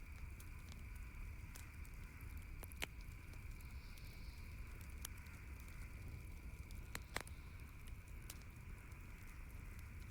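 Campfire crackling, with scattered sharp pops, the loudest two about three seconds in and about seven seconds in, over a steady low rumble.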